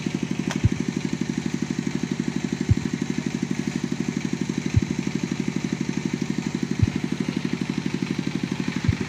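Single-cylinder S1115 25 HP diesel engine running steadily with a fast, even chugging beat, driving a 10 kW single-phase generator. A low thump sounds about every two seconds.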